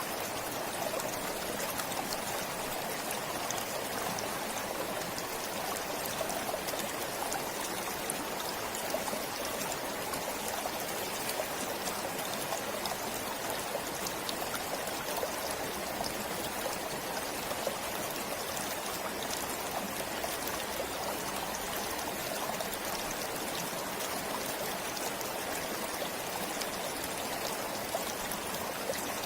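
Forest stream flowing steadily over rocks, a continuous rushing with small trickles and splashes.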